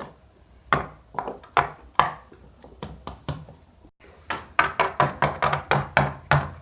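Small toy figures tapped along a hard surface as they are walked in: a string of sharp knocks, spaced out at first, then a quick even run of about a dozen near the end.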